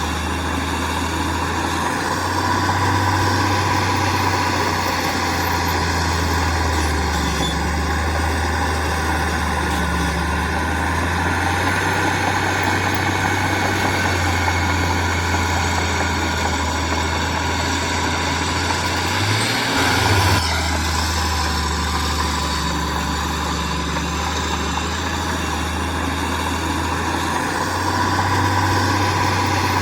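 Heavy diesel engine of earthmoving machinery running steadily, its low note stepping up and down a few times, with a brief louder burst about two-thirds of the way through.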